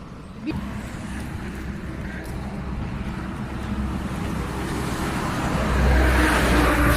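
Highway traffic going past, with a vehicle's rumble growing steadily louder and peaking near the end as it passes close by.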